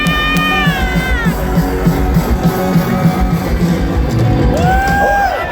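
Live rock band playing: a long held note slides down and stops about a second in, over a steady drum and bass groove, with a short gliding note near the end.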